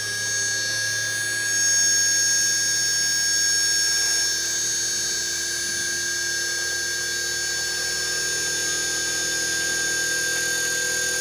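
Hitachi inverter air conditioner running, with its inverter-driven compressor and fans, giving a steady machine hum with a high-pitched electrical whine. It is the sound of the unit working normally after repair.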